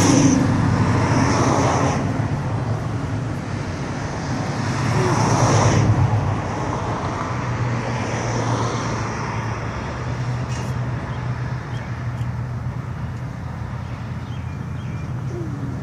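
Classic cars driving past one after another. Engine and tyre noise swells as each car goes by, loudest near the start and again about five seconds in, over a steady low engine hum.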